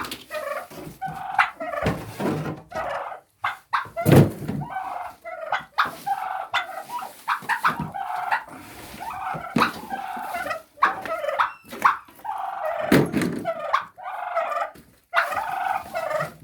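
A flock of young turkeys calling over and over with short repeated calls. Several dull thumps come through, the loudest about four seconds in and again near thirteen seconds.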